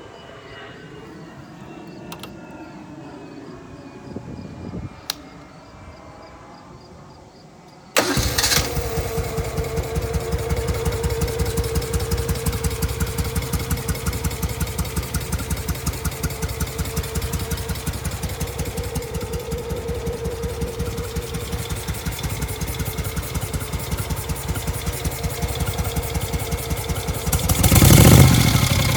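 1971 Moto Guzzi Ambassador's V-twin engine cold-starting: after a few quiet seconds with a couple of faint clicks, it fires about eight seconds in, catches at once and settles into a steady, evenly pulsing idle. Near the end it is revved briefly and gets louder.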